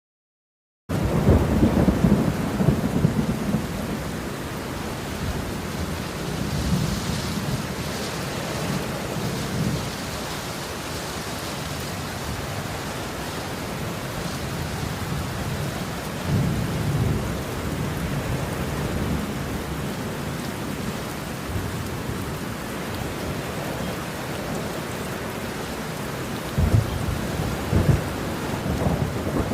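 Thunderstorm: steady rain with low thunder rumbling several times. It starts abruptly about a second in, out of silence.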